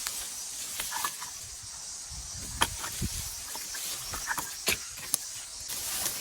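A broom sweeping the ground: scratchy brushing over a steady hiss, with scattered clicks and scrapes.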